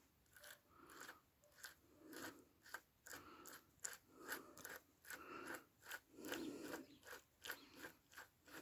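Faint, irregular scraping and clicking as a threaded stud is turned out of an MTZ-82 tractor's gearbox housing by hand, one or two strokes a second.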